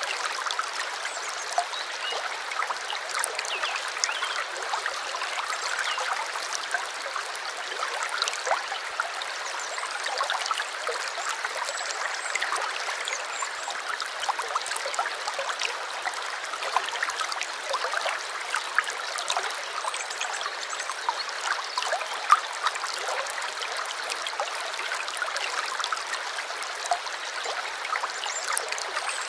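A small stream flowing in a steady trickle, full of small splashes and gurgles.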